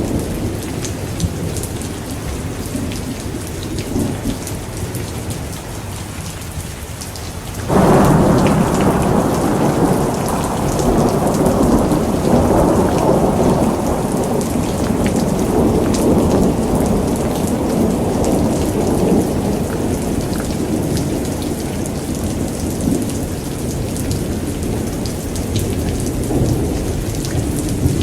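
Thunderstorm: steady rain with a sudden clap of thunder about eight seconds in that rolls on as a long rumble, slowly fading over the following fifteen seconds or so.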